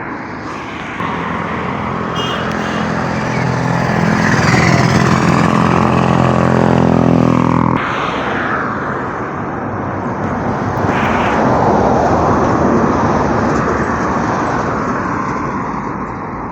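A motor vehicle engine running close by over outdoor noise: a steady engine hum that drops in pitch and cuts off suddenly about eight seconds in, followed by continuing traffic-like rumble.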